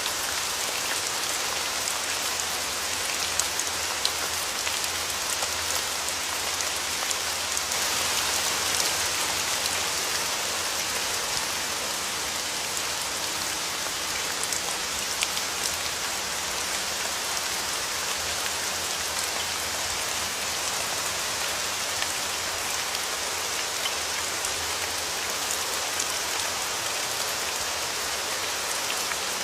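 Steady rain falling on a surface: a continuous hiss with scattered sharp drop taps. It swells slightly about eight seconds in.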